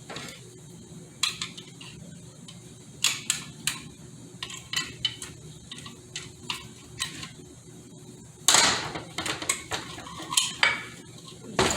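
Hand tools and metal transmission parts clinking and tapping against each other, with scattered sharp clicks and a louder metallic scrape about eight and a half seconds in.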